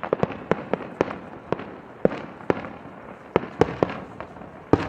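Aerial fireworks display: about a dozen sharp bangs of bursting shells in quick, irregular succession over a steady background noise.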